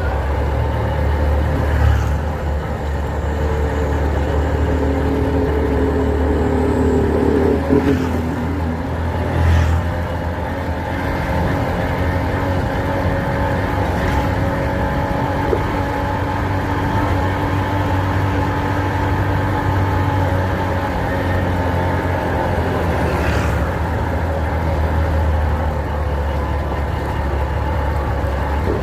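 A motor vehicle's engine running steadily with a low rumble, with a few faint sharp clicks over it.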